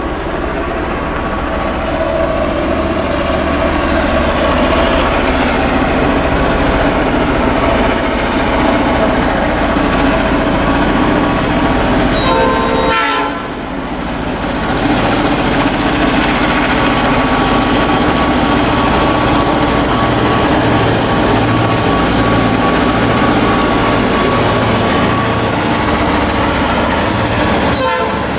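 Works train hauled by S-class and T-class diesel-electric locomotives running through a station: steady engine drone with wagon and wheel noise. The sound briefly dips about thirteen seconds in.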